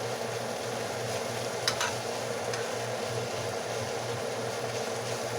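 Food sizzling steadily in a frying pan, with two light utensil clicks a little under two seconds in.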